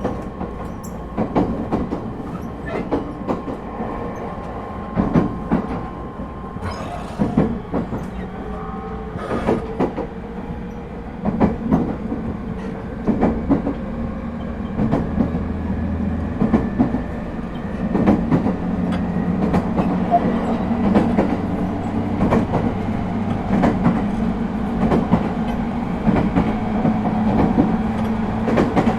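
Echigo TOKImeki Railway ET127 series electric train running at speed, heard from inside the car: a steady rumble with the wheels clicking over rail joints again and again, under a faint hum from the Toyo IGBT-VVVF traction equipment.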